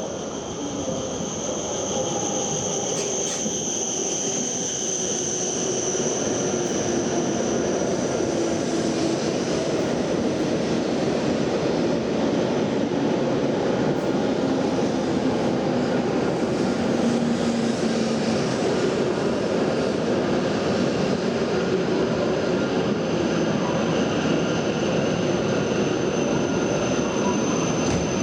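Shinkansen train, the W7 series on a test run, moving through a station: a steady rushing rumble that grows louder over the first few seconds and then holds, with a high thin whine over it at the start and again near the end.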